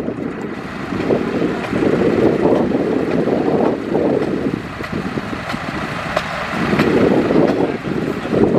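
Bulldozer's diesel engine running under load, its rumble swelling and easing every second or two.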